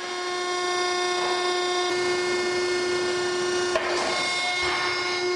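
Hydraulic tire baling press running as it compresses a load of car tires: a steady, even whine, with a short click about four seconds in.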